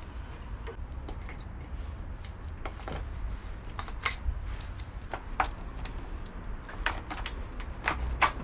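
Scattered, irregular light clicks and knocks of hands working a motorcycle's wiring loom free, connectors and parts tapping against the frame.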